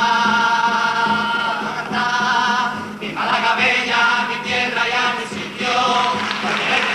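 Comparsa choir singing in harmony: a long held chord for about the first two seconds, then a run of shorter sung notes.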